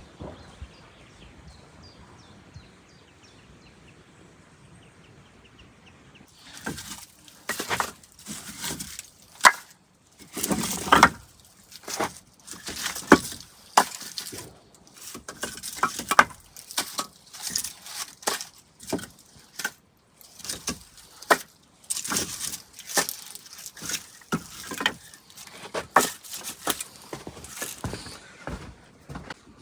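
Wood cracking and snapping in irregular sharp cracks, some loud, beginning about six seconds in, after a few seconds of faint birdsong.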